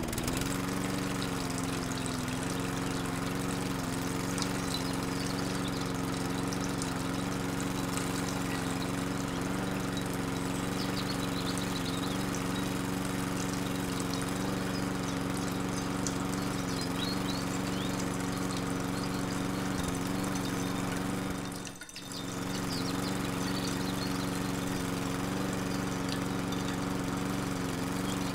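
Small electric motor running steadily with water pouring and splashing, typical of a mini water pump; the sound dips briefly about three-quarters of the way through.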